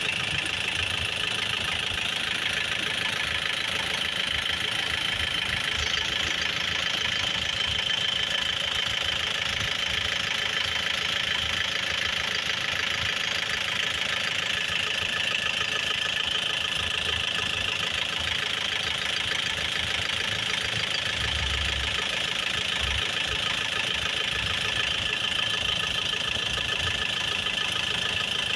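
Isuzu Sportivo's engine idling steadily, with a steady high-pitched whine over its running.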